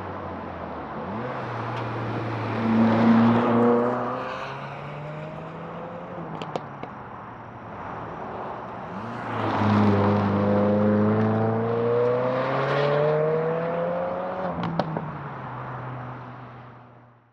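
2022 Subaru WRX's 2.4-litre turbocharged flat-four through an ETS muffler-less axleback exhaust, accelerating twice with its pitch rising, and a couple of sharp exhaust pops. The sound fades out near the end.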